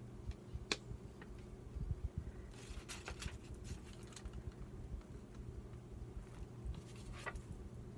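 Paper being handled at a desk: scattered light taps and clicks with a short rustle about three seconds in, over a steady low hum.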